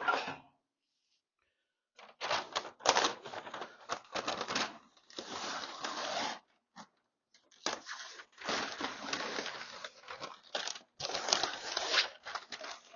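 Paper being peeled and torn off a freshly set Duraglass filler skim on a car's wheel lip and crumpled, in irregular rustling, tearing bursts with short pauses. It starts about two seconds in.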